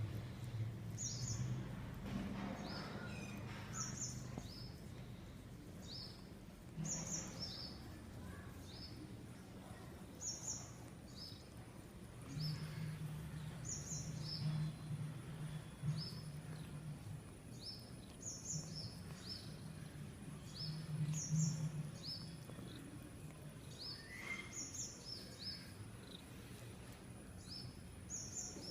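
A bird calling over and over, a short high chirp, often in quick pairs, every two seconds or so, over a steady low hum.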